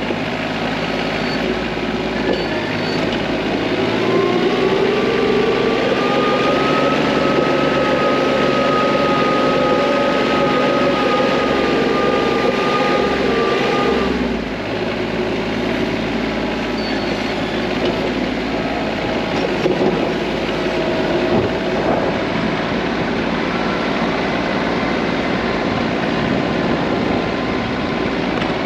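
TYM T25 compact tractor's diesel engine running steadily, revving higher about four seconds in and holding there for about ten seconds before dropping back.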